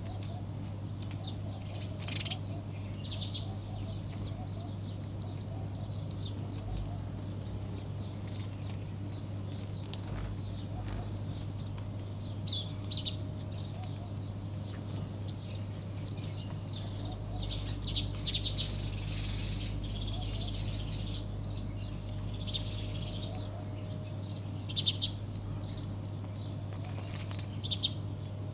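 Small birds chirping in short, scattered bursts, with several louder flurries, over a steady low hum.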